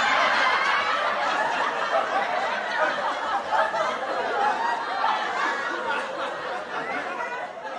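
Laugh track after a joke's punchline: several people laughing and chuckling together, fading slightly towards the end.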